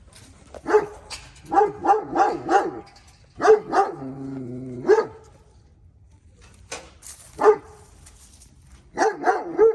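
A dog barking repeatedly in quick runs of short, sharp barks, with a brief drawn-out lower note about four seconds in.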